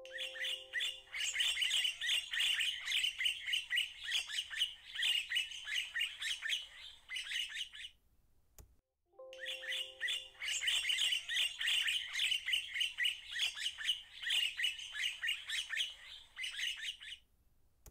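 Birds chirping in a dense, rapid chatter, in two stretches of about eight seconds with a break of about a second between them. Each stretch opens with a brief lower, steady note.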